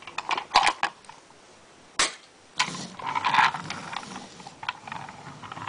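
Small plastic toys being handled: a few quick clicks and clacks, one sharp snap about two seconds in, then a short rustle and scattered lighter taps.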